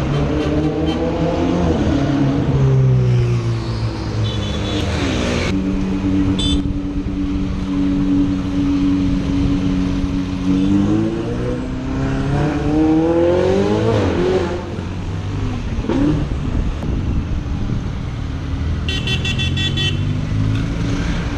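Sports car engine revving with its pitch falling and rising through the gears, held steady for several seconds in the middle. Car horns sound briefly twice in the first seven seconds, and a rapid series of horn toots comes near the end.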